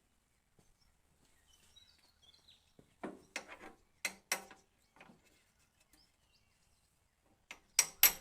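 Metal parts knocked and clinked together by hand while being fitted on a tractor: a few short sharp knocks midway, then louder sharp strikes near the end, like a part being tapped into place.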